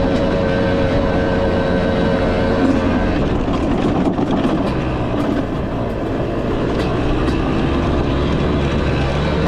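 Husqvarna enduro dirt bike's engine running steadily under way, mixed with rushing wind and rattle on the bike-mounted camera. The engine holds a steady note for the first few seconds, then turns rougher with a few light knocks.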